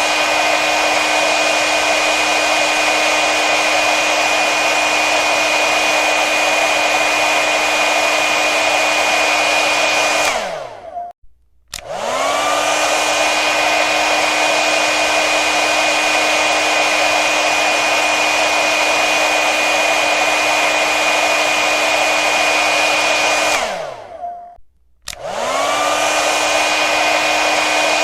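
Hair dryer running with a steady rush of air and a motor whine. About ten seconds in it is switched off, the whine falling as the motor winds down, and after about a second it comes back on, the whine rising as it spins up; the same happens again near the end.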